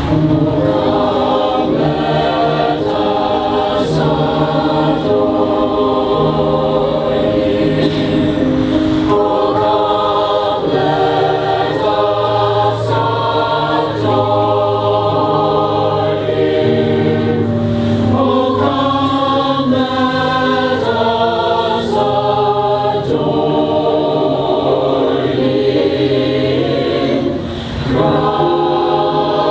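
Mixed choir singing a cappella, many voices in harmony in a lilting carol arrangement, with a brief breath pause near the end.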